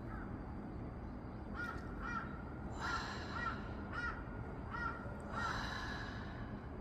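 A crow cawing repeatedly, about seven short caws, some in quick pairs.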